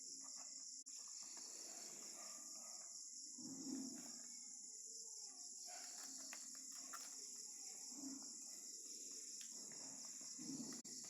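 Steady high-pitched chirring of crickets, with a few faint soft bumps and ticks now and then.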